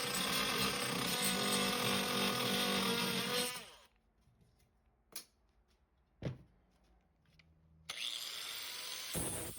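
A handheld power tool runs and winds down about three and a half seconds in. Two sharp clicks follow in the quiet, and the tool starts up again near the end.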